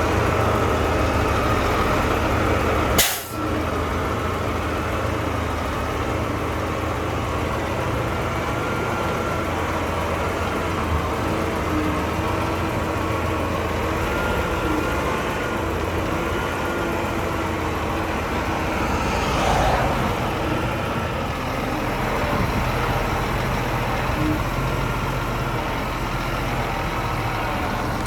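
Heavy bulldozer diesel engine running steadily. A sharp click comes about three seconds in, and a short hiss near the twenty-second mark.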